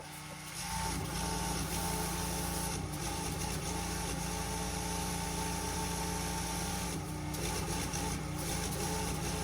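Pressure washer running steadily, with its engine's note over the hiss of the spray. It is quieter for the first half-second, then holds level.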